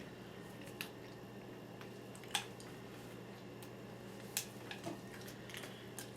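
Scattered sharp clicks and taps from handling a hardened birdseed ornament while pushing yarn through its hole with a straw, over a steady low hum. The loudest clicks come a little over two seconds in and at about four and a half seconds.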